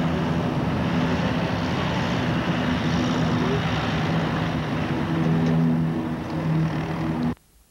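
Aircraft engines running steadily, a loud, even roar with a low drone in it, cutting off abruptly near the end.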